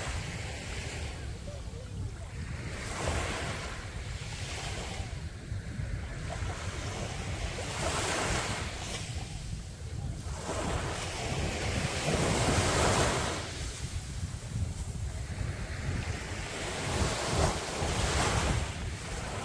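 Sea waves breaking and washing up on the beach, one swell of surf after another every few seconds, with the loudest surges about twelve seconds in and near the end. Wind rumbles on the microphone underneath.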